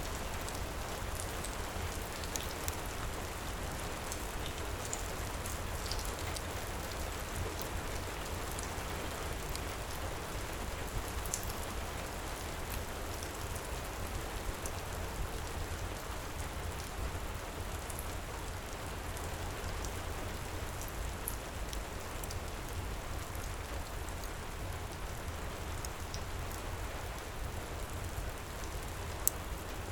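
Steady heavy rain with small, scattered crackles of a wood fire in a fireplace, and one sharper pop near the end.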